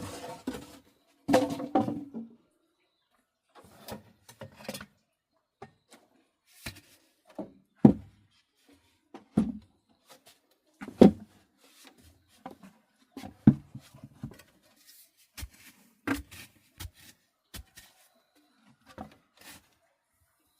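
Wood being knocked and handled: a dozen or so irregular knocks and thuds, some with a short hollow ring, and a little rubbing and scraping at the start.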